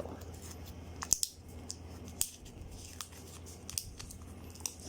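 Plastic shrink wrap being peeled off and handled on a card deck box: scattered faint crackles and sharp clicks, a few a second at most.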